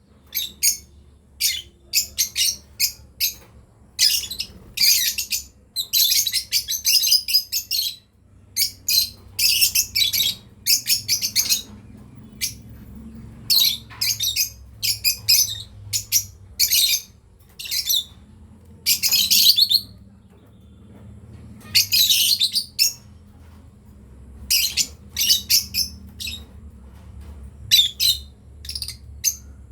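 Lovebirds chirping in high-pitched bursts of chatter, one after another with short pauses between, over a faint steady low hum.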